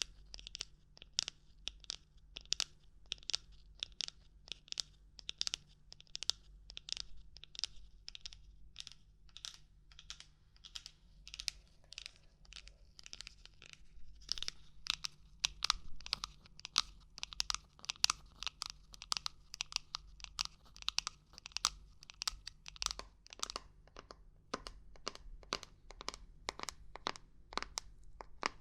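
ASMR knocking and tapping on objects: a quick, irregular run of light, crisp taps, several a second. About fourteen seconds in, the taps take on a fuller, lower sound, as if a different object is being knocked.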